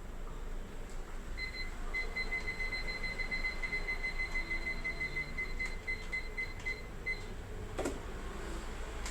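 Rapid electronic beeping, about six short high beeps a second for roughly six seconds, over a steady low hum, then a single click near the end.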